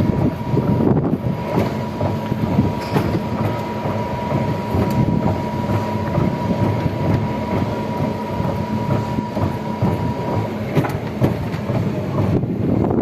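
Steady rumble of a moving vehicle, heard on board, with a thin steady whine that stops about ten and a half seconds in.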